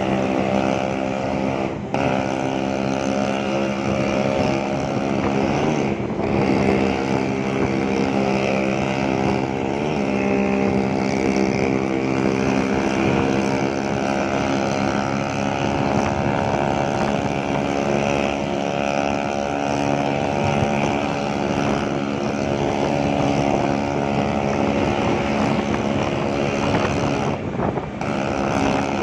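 Classic Vespa scooter's two-stroke engine running steadily under way, its pitch shifting briefly a few times.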